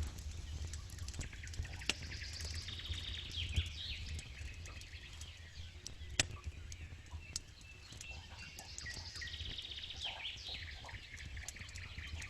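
Campfire crackling with scattered sharp snaps, one loud snap about six seconds in, over a steady low rumble. A songbird sings a high trilling phrase twice, about three seconds in and again near ten seconds.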